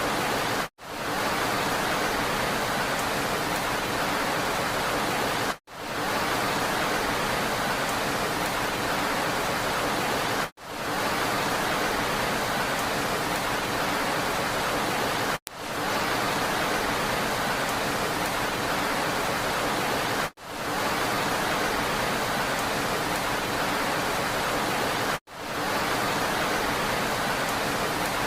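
Steady rain hiss. It breaks off in a brief dropout about every five seconds and fades straight back in, the mark of a short rain recording looped over and over.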